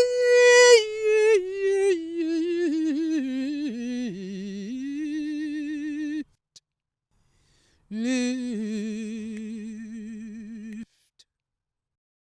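A solo voice singing unaccompanied, slow and drawn out, each note held with vibrato and the melody stepping down; after a short pause a second, lower phrase ends on the word "lift", then the voice stops.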